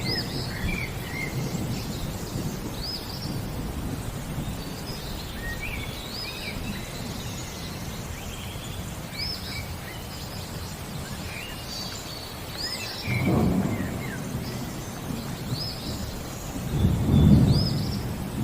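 Thunder rumbling under rain, with small birds chirping short repeated notes. The rumble swells about 13 seconds in and again near the end.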